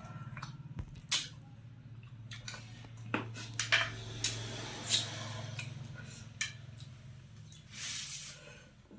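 A metal spoon clinking and scraping in a pan of cooked chicken curry, with several sharp clicks and knocks and a longer swish about 8 seconds in, over a steady low hum.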